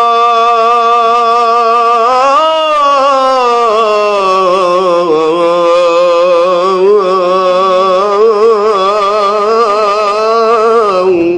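Solo male voice singing an Arabic religious nasheed, holding one long melismatic note with wavering vibrato on the last syllable of the line, swelling up in pitch about two and a half seconds in, then cutting off sharply at the end.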